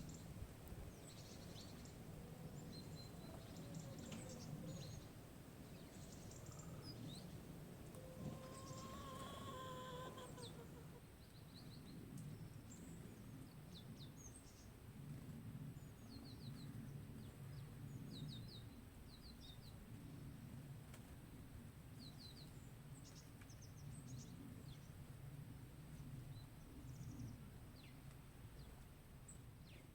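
Faint outdoor birdsong: small birds giving short high chirps scattered throughout, with one longer drawn-out call about eight to ten seconds in, over a low steady rumble.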